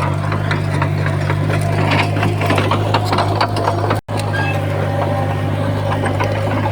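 Komatsu D51PX bulldozer's diesel engine running steadily, with many quick clicks and clanks over it. The sound cuts out for an instant about four seconds in.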